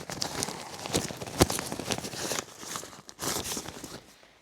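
Rustling and crinkling of packed camping gear, a tarp among it, being handled, with small clicks and one sharp knock about a second and a half in. It dies down near the end.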